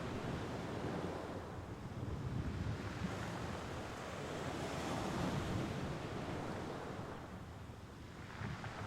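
Sea waves washing onto the shore, a continuous rush of surf that swells and eases in slow surges, with a little wind on the microphone.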